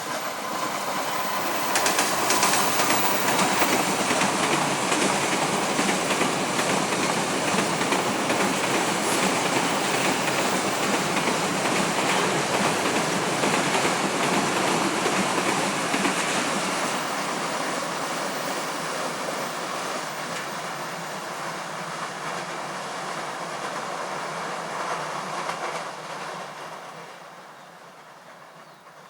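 A train passing close by on the rails. The noise comes up sharply about two seconds in, stays loud for about fifteen seconds, then eases off and dies away near the end as the train moves off.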